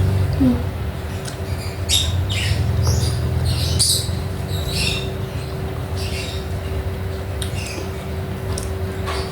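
Close-up eating sounds: irregular wet chewing and lip-smacking clicks, over a steady low hum.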